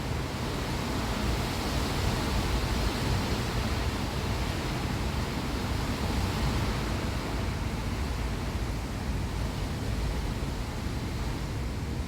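Steady rushing noise with a strong low rumble and no distinct events.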